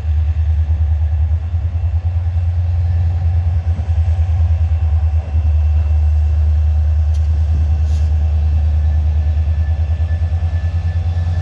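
A passing train: a loud low rumble that pulses rapidly, with a faint thin high-pitched whine running through it.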